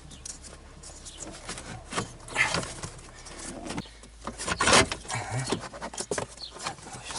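Hard plastic knocking, scraping and rattling in irregular bursts as the heater blower motor assembly is worked free and pulled down out from under the dashboard, getting louder from about two seconds in.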